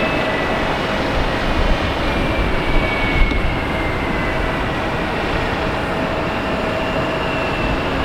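Jet airliner engines running with a steady rumble and a faint high whine that drifts slightly lower in pitch.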